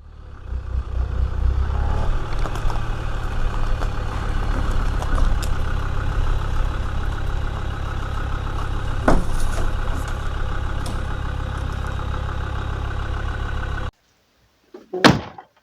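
Land Rover running, a steady engine and road rumble that fades in at the start and cuts off abruptly near the end, followed by a single sharp knock.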